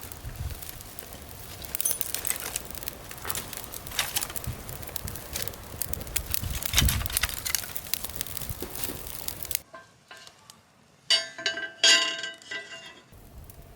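Wood fire crackling and popping with irregular sharp clicks. Then, after an abrupt change, a few bright clinks of metal or glass with short ringing tones, like cookware or utensils knocking together.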